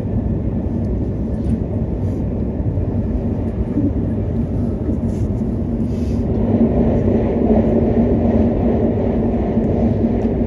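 Hokuriku Shinkansen train running at speed, heard from inside the passenger cabin as a steady low rumble with a faint hum. It grows louder in the second half as another shinkansen passes close alongside.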